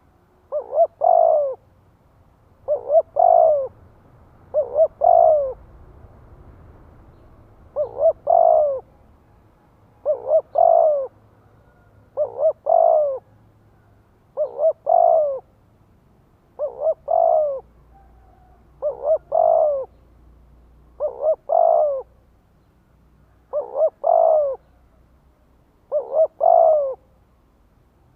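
Spotted dove cooing its song: a phrase of short coos running into a longer final coo, repeated about twelve times at roughly two-second intervals.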